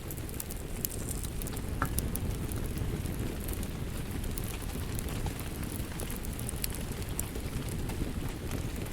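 Wood fire crackling in a fireplace: many sharp pops and snaps scattered over a steady low rumble of the flames.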